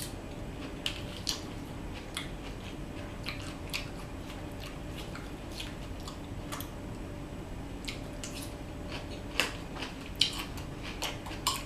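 Close-up chewing and crunching of mouthfuls of salad: scattered short, crisp crunches, with a couple of louder ones near the end.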